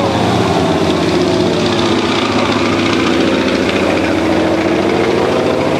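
An engine droning steadily, its pitch drifting slightly and rising a little near the end.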